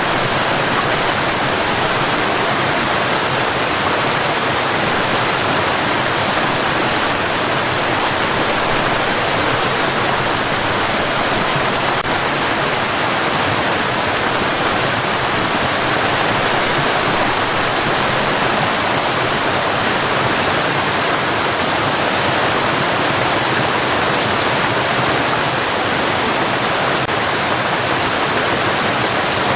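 Steady white noise: an even, unchanging hiss across low and high pitches, played as a sleep aid for babies.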